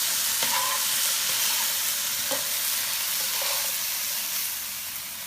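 Peppers and marinade sizzling steadily in a hot pan, with a few faint clicks of stirring; the sizzle eases slightly near the end.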